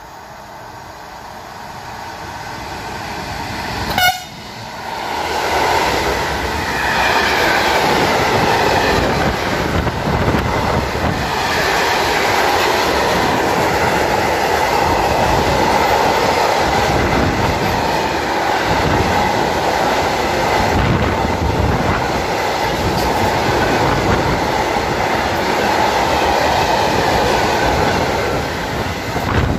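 A train approaches and gives a short horn blast about four seconds in, then passes close by for over twenty seconds with a steady rumble and clatter of wheels on the rails.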